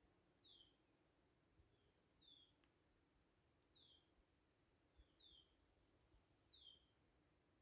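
Faint songbird repeating a short high two-note phrase, a flat whistle followed by a quick downward slur, about every second and a half, over a soft steady background hum.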